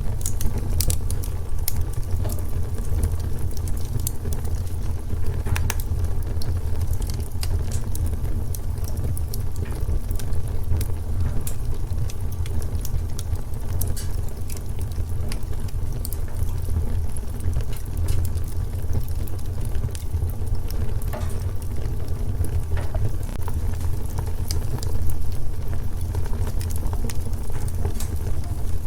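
Wood fire crackling in a fireplace: a steady low rumble with frequent irregular sharp crackles and pops.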